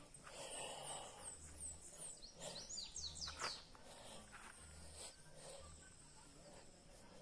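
Small birds calling outdoors: a quick series of very high, short downward chirps, then a few steeper downward sweeps about three seconds in. Soft low thuds sound intermittently underneath.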